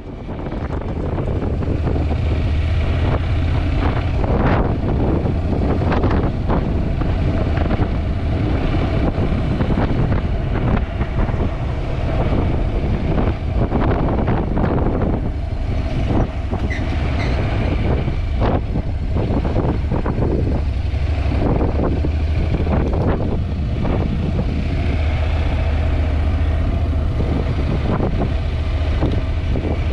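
Heavy wind buffeting on a GoPro's microphone while riding a Honda NC750X motorcycle, over a low steady rumble. The wind noise swells within the first couple of seconds, then holds steady with constant gusty thumps.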